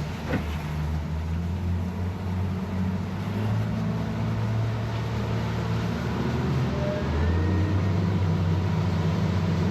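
Boat's outboard motors running under way, a steady low drone that shifts slightly in pitch about seven seconds in.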